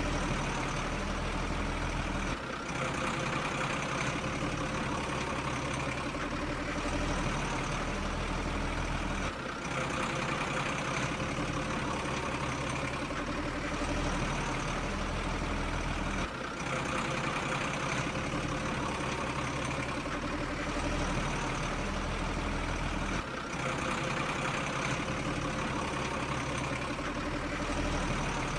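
A heavy vehicle engine running steadily at idle, with a short dip that comes round about every seven seconds in the same pattern, like a repeating loop.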